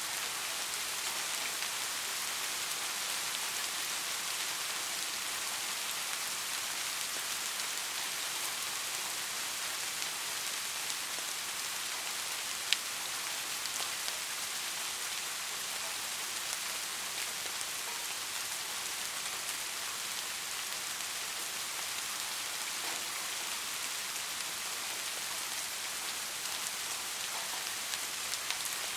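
Steady, gentle rain falling on a surface, an even hiss with scattered individual drop clicks, one sharper tap about halfway through.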